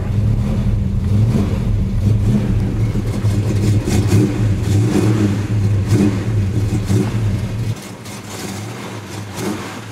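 A 360 small-block Mopar V8 in a 1967 Plymouth Barracuda running at a steady warm-up idle through a quiet Flowmaster-type dual exhaust, with a few small swells. About eight seconds in the deep low rumble drops away and the level falls.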